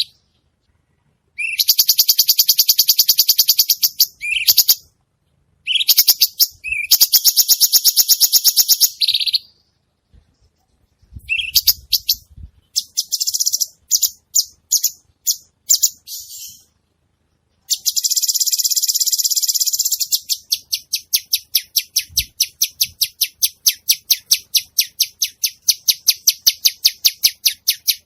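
Cucak cungkok songbird singing: high, rapid chattering phrases a few seconds long, broken by short pauses, then a long run of repeated notes at about four a second near the end.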